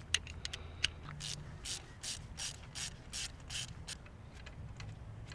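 Ratchet wrench clicking in a run of short strokes, about two to three a second, undoing the spark plugs, with a few lighter metal clicks in the first second.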